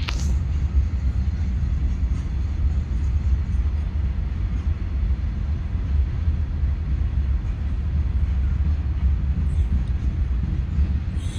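Open-top steel freight wagons of a goods train rolling past on the track: a steady, low rumble that stays even throughout.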